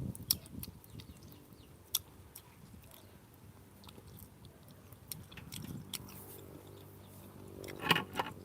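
A person chewing juicy rambutan flesh close to the microphone, with scattered wet mouth clicks and smacks. There is a louder burst near the end.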